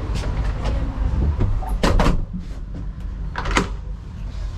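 A door being opened and shut: two pairs of sharp latch clicks, about a second and a half apart. A steady low rumble from the moving ferry runs underneath.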